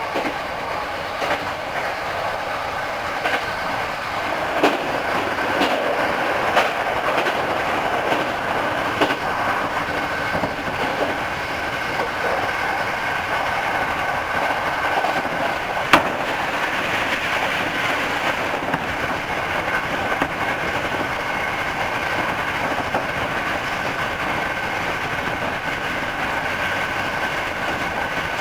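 Hankyu 5000 series electric train running between stations, heard from on board: steady running noise with a steady whine and wheels clicking over rail joints. One sharp click stands out about 16 seconds in.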